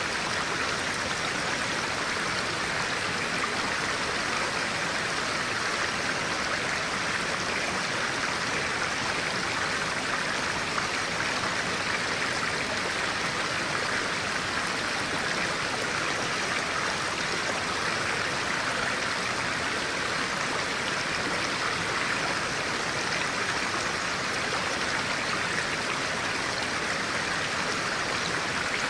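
Clear-water stream flowing steadily, an even rushing babble with no breaks.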